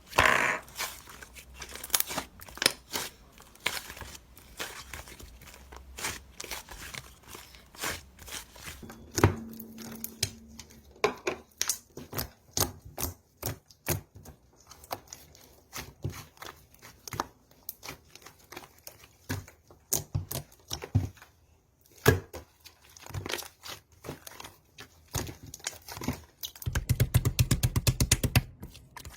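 Slime being squished and stretched by hand, making irregular sticky clicks and pops, with a dense run of rapid crackling near the end.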